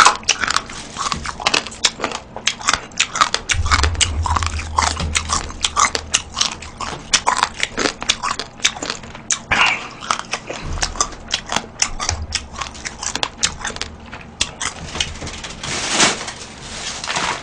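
Close-miked chewing of Chinese-Korean noodles and seafood: a steady run of short, wet mouth clicks and smacks with no words.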